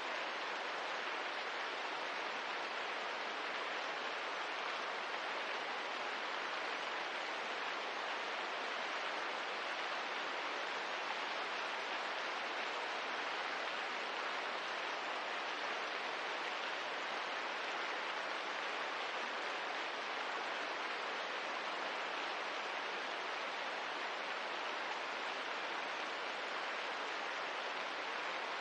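Steady rain ambience: an even, unbroken hiss of rainfall with no separate drops, fire crackles or changes in level.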